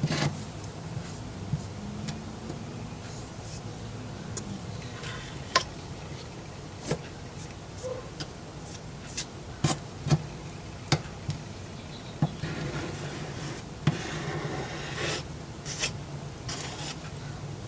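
Putty knife scraping and spreading spackling compound over a flat surface, with scattered light clicks and taps of the blade; a steady low hum runs underneath.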